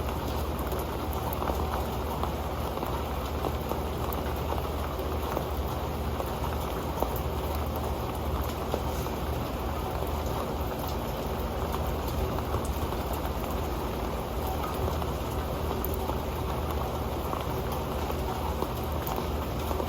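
Rain falling steadily onto an old pan: a dense, even patter of drops with occasional sharper ticks.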